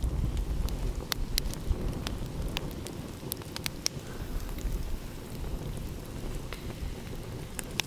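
Wood fire crackling, with sharp pops at irregular moments over a low steady rumble.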